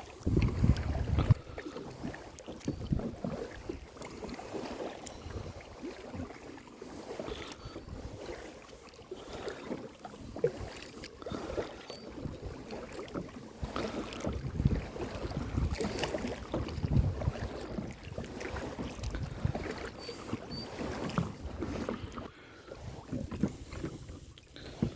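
Kayak being paddled: paddle strokes dipping and splashing in the water, with scattered knocks against the hull. Gusts of wind buffet the microphone now and then.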